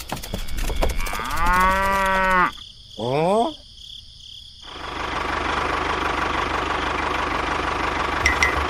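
A cow moos once, a long call about a second in, followed by a short rising sound. From about halfway through, a steady engine runs, the kind of sound laid over the mini tractor.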